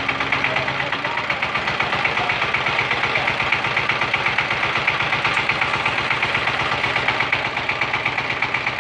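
Single-cylinder diesel engine of a new 16-horsepower walk-behind power tiller running with a rapid, even chug.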